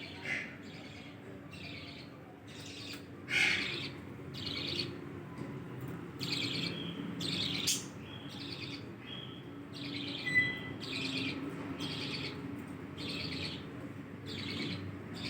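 Budgerigars chirping: a steady run of short, high chirps, one or two a second, with a louder call about three and a half seconds in and another about ten seconds in.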